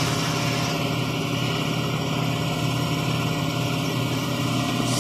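Steady low mechanical hum of a running motor, unchanging throughout.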